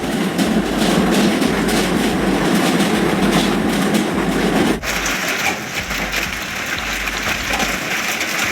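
Hailstones pelting hard surfaces in a dense, continuous clatter of rapid impacts, cutting to a slightly quieter stretch of hail about five seconds in.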